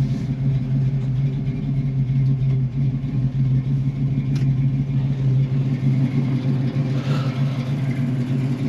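A 1964½ Ford Mustang's 260 V8 idling steadily, with a single sharp click about four seconds in.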